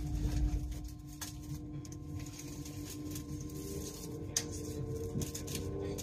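Inside the carriage of a Great Western Railway Class 800 train moving along a platform: a low rumble, strongest in the first second, under a steady hum. From about halfway a whine rises in pitch as the train gathers speed, with one sharp click a little after halfway.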